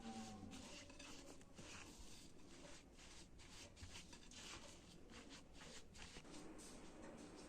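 Faint, irregular scraping and rustling, a few strokes a second, from food being handled and worked in the kitchen.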